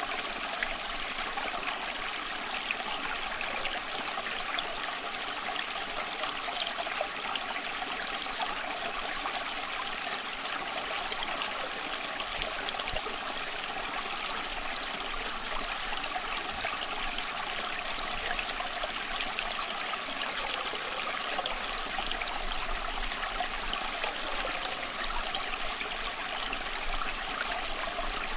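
Small stream of water running over stones, a steady babbling and trickling with no pauses.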